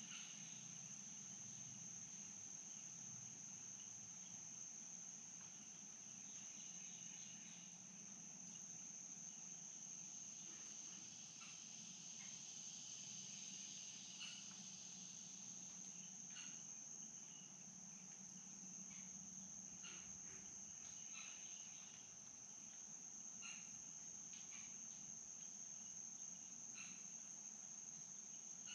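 Faint, steady high-pitched insect trill that never lets up, with scattered short chirps from other creatures over a soft low rush.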